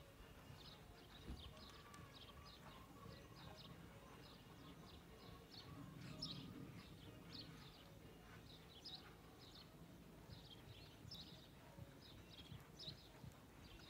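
Faint birdsong: short, high chirps repeating every half second or so, over a low, steady background rumble.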